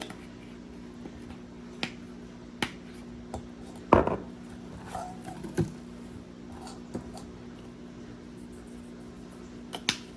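Kitchen utensils and dishes clinking and knocking in a run of separate taps, with the loudest clatter about four seconds in, over a steady low hum.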